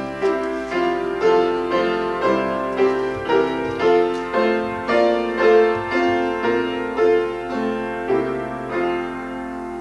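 Piano playing slow chords in a steady pulse, roughly two a second, the last chord ringing out and fading near the end.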